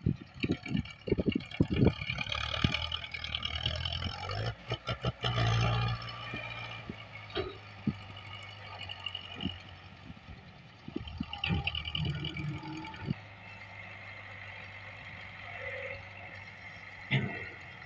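Tractor engine running steadily, with scattered knocks and clatter, thickest in the first few seconds.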